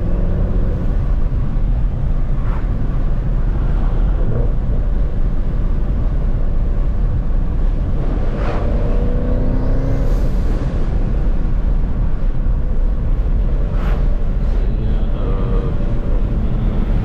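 Twin-turbo Ford Mustang's engine running while the car is driven, a steady low rumble. Three brief sharp sounds cut through it, about 2.5, 8.5 and 14 seconds in.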